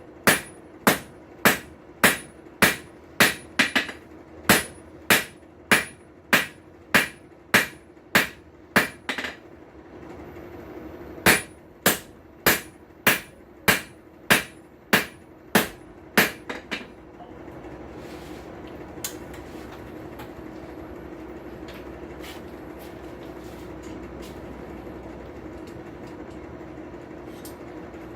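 Blacksmith's hammer striking hot steel on an anvil in a steady rhythm of about one and a half blows a second, with a short break about ten seconds in. The hammering stops about sixteen seconds in, leaving a steady rushing noise with a low hum and a few crackles from the charcoal forge.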